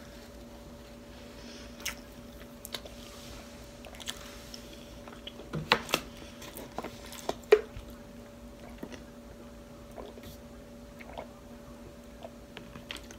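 Close-miked chewing of a soft chicken taco, quiet wet squishing mouth sounds. A few sharp clicks and crackles around the middle as a plastic water bottle is handled.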